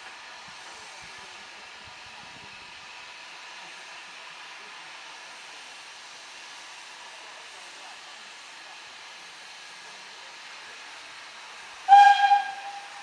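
Steam locomotive hissing steadily, then a short, loud blast on its steam whistle near the end.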